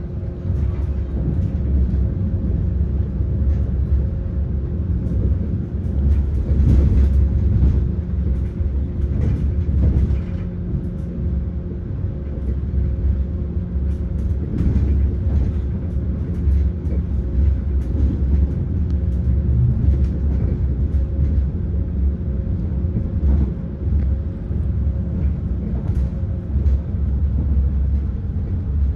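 Running noise of an ETR600 Frecciarossa tilting high-speed train: a steady low rumble with a constant hum.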